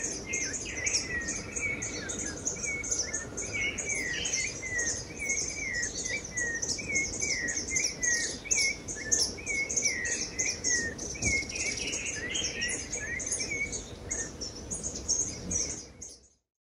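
Birds calling: a rapid run of high chirps, several a second, with lower slurred notes repeating about twice a second beneath them, all cutting off abruptly near the end.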